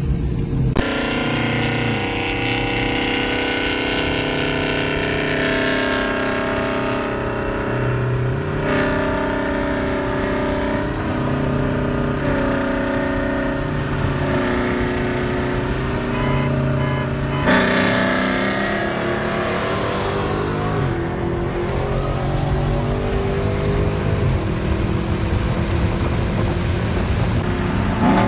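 Car engines and road noise heard from inside a car running at highway speed. About two-thirds of the way through, an engine revs up with a rising pitch.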